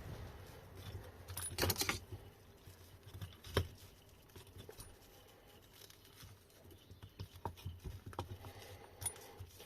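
Small clicks, knocks and rattles of tools and metal parts being handled during hands-on work on a motor: a brief rattle about a second and a half in, one sharp knock a little later, then scattered light ticks.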